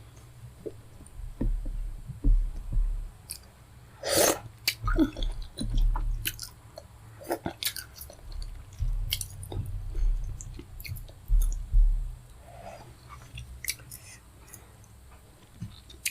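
Close-miked chewing and wet mouth smacks of someone eating fufu with pepper soup: soft repeated low thumps of the jaw with many short clicks, and one louder rushing sound about four seconds in.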